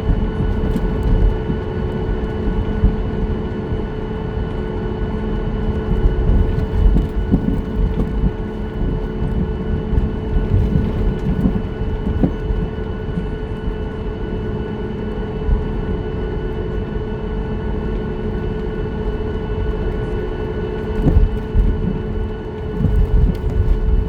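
Cabin noise aboard a Boeing 737-9 MAX airliner: a steady engine and air hum with several fixed tones over an uneven low rumble.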